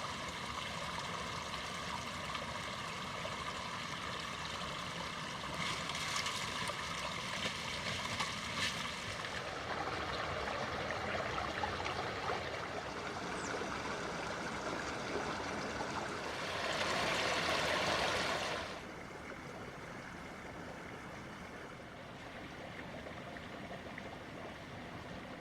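Steady rushing of running water, with a louder surge of rushing noise for about two seconds about two-thirds of the way through.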